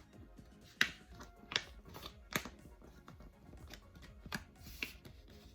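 A sheet of thin, shiny paper being folded and creased by hand, giving about half a dozen sharp crinkling crackles spread over a few seconds.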